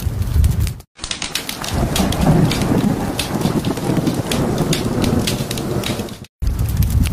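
Fire crackling over a low rumble, broken by a brief silent gap about a second in. Then rain falls with a rolling thunder rumble and scattered crackles, until another brief gap near the end brings back the fire crackle.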